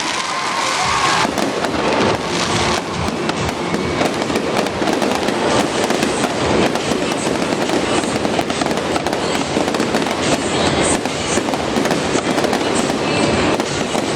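Stadium fireworks show: a dense, continuous barrage of rapid bangs and crackling from many shells going off at once.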